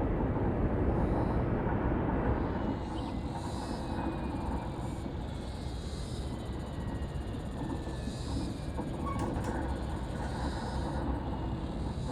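Strong wind rumbling and buffeting over the microphone, easing slightly about two and a half seconds in. A faint, slowly falling whine from a passing jet airliner's engines runs under it.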